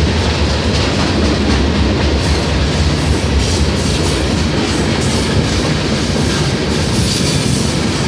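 A train's cars rolling past on the rails: a loud, steady rumble with the wheels clicking over the rail joints.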